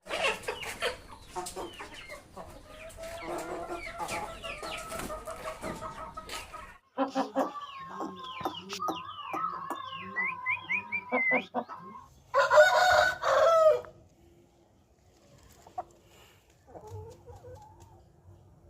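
Aseel chickens clucking busily for about the first eleven seconds, then one loud, short rooster crow about twelve seconds in. After that it is mostly quiet, with a few faint clucks near the end.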